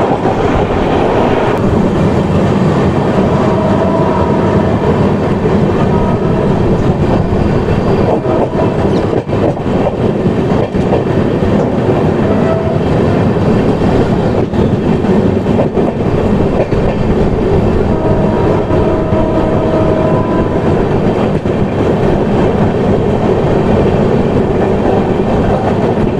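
Passenger train running at speed, heard from an open coach doorway: a steady, loud rumble of wheels on rail with clickety-clack over the rail joints. Brief high tones come and go now and then.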